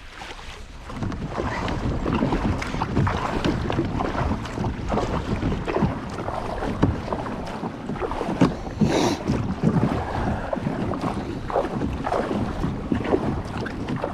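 Water splashing and sloshing around a kayak, with wind buffeting the microphone.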